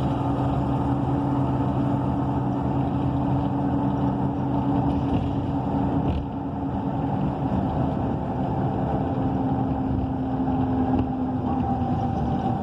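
Cummins Westport ISL G natural-gas engine of a transit bus, heard from inside the cabin, running at a steady speed with a constant hum over a low rumble. Its pitch falls slightly near the end.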